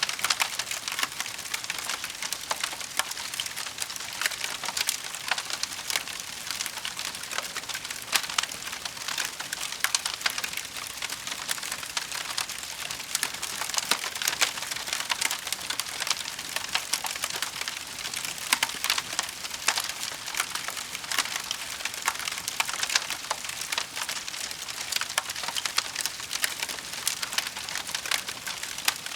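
Wood fire burning in a fireplace: a dense, steady crackle of many small snaps and pops over a soft hiss.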